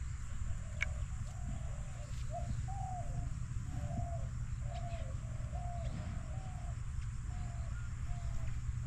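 A bird calling a long, even series of short hooting notes, about one and a half a second, growing fainter near the end, over a steady low background rumble.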